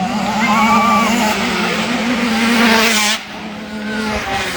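Small two-stroke 65cc motocross bike engines running at high revs, the pitch wavering as riders work the throttle; one bike swells louder as it comes close and cuts off suddenly a little after three seconds in.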